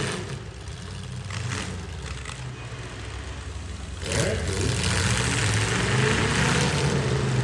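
Demolition derby truck engines running and revving, with a few short knocks early on; the engine noise grows louder about four seconds in.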